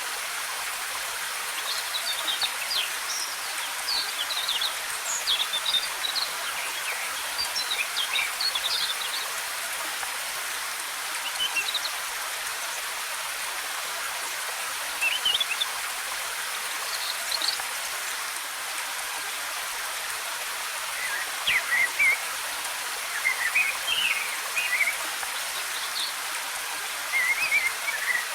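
Steady rush of a waterfall, with small forest birds chirping and twittering in short high phrases that come and go over it.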